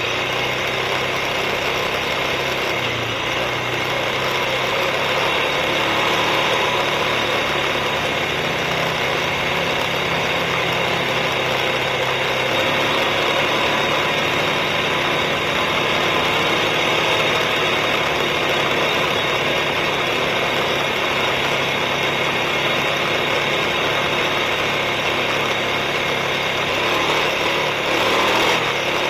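Suzuki KingQuad ATV engine running steadily, under a constant rushing noise that holds at one level throughout.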